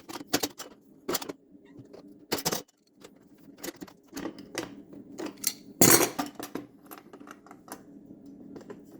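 Scattered sharp metallic clicks and knocks from hand tools and hardware being worked against a metal table leg, with the loudest knock about six seconds in.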